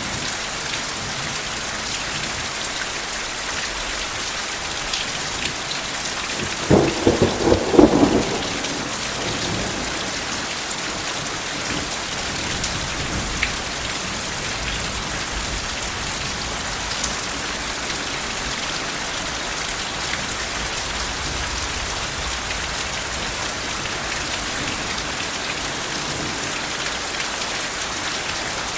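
Steady heavy rain falling, an even hiss, with one short crackling clap of thunder about seven seconds in, lasting a couple of seconds.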